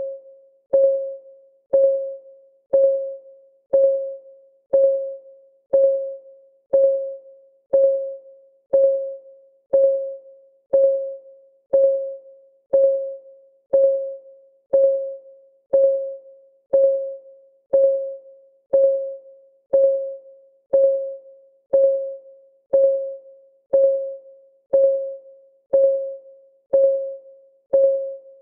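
Timer clock-ticking sound effect: short, pitched ticks about once a second, each dying away quickly, in a perfectly even beat.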